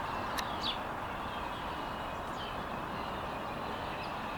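Steady outdoor background noise with a few short bird chirps, two of them quick falling chirps in the first second and fainter ones later.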